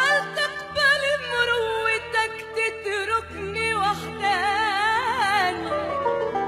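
A woman singing a long wordless melismatic run of an Arabic mawwal with heavy vibrato, over instrumental accompaniment.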